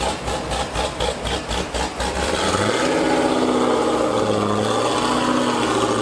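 Supercar engine and exhaust passing close by. For about two seconds it gives a rapid, even pulsing, then it settles into a steady, louder engine note that rises and dips slightly as the car drives on.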